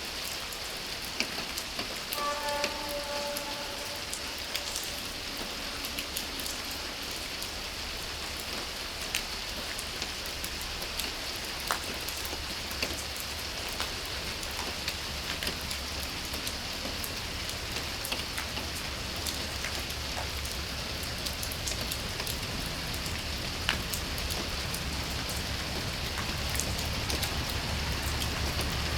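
Rain falling steadily, with scattered individual drops ticking. About two seconds in there is a brief pitched tone of about a second, and a low rumble grows louder near the end.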